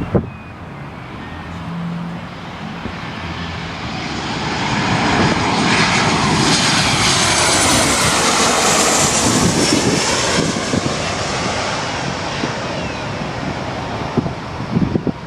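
Jet airliner passing close by: engine noise swells to a peak about halfway through and then fades, with a high whine that slides in pitch as it goes past.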